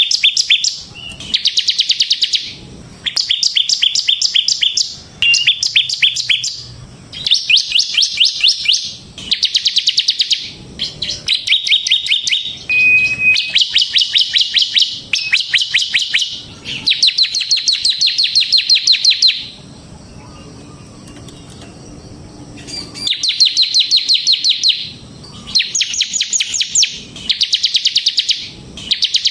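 Bar-winged prinia (ciblek semi) singing: repeated bursts of rapid, high chip notes, about ten a second, each burst lasting one to two seconds. A longer pause of about three seconds falls past the middle.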